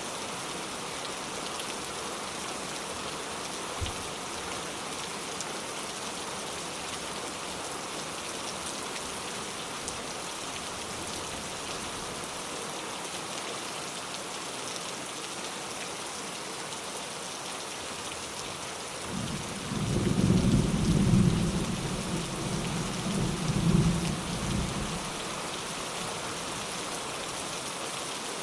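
Steady heavy rain falling, an even hiss. About two-thirds of the way through, a roll of thunder rumbles for several seconds, swelling twice before it fades back into the rain.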